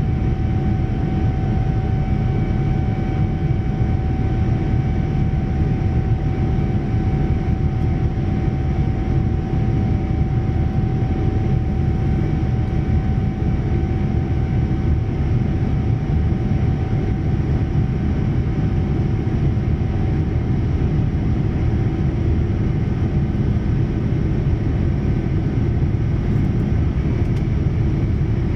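Boeing 787-9 cabin noise in flight: the steady low roar of its Rolls-Royce Trent 1000 engines and airflow, with a thin steady whine that fades away about two-thirds of the way through.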